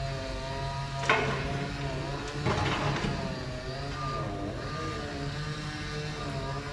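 Engine of heavy construction machinery running steadily, its pitch shifting briefly partway through. A sharp knock comes about a second in, and a short noisy clatter follows at around two and a half seconds.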